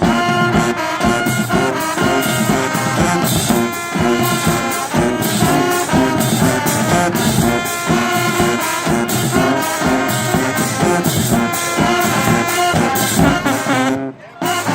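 High school band playing, brass instruments carrying the tune over a steady beat; the music drops out briefly near the end.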